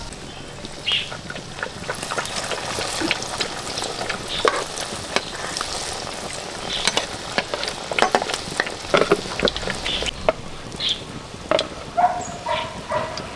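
Food sizzling as it fries in a pan, with many sharp clicks and knocks scattered through and a brief steady tone near the end.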